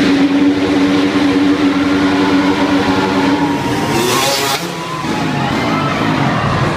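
Dirt bike engine revving hard at a steady high pitch for about three and a half seconds. The pitch then shifts, a brief hissing burst comes about four seconds in, and the engine continues at a lower, more uneven pitch.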